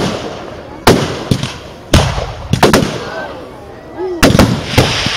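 Aerial firework shells bursting in quick succession: about nine sharp bangs, each with a rumbling echo, and a hissing crackle starting near the end.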